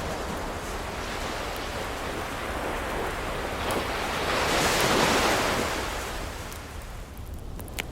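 An ocean wave breaking on the shore: a rushing surf that swells to a peak about five seconds in and then washes back. Near the end there is a sharp pop from a crackling wood fire.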